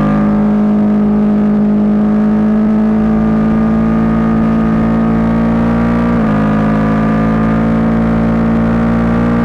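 Suzuki GSX-8S parallel-twin engine running at a steady high pitch, with a brief dip and recovery about six seconds in.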